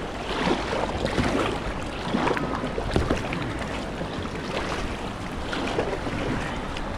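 Kayak paddle strokes splashing into moving river water, a stroke every second or so, over the steady rush of the river.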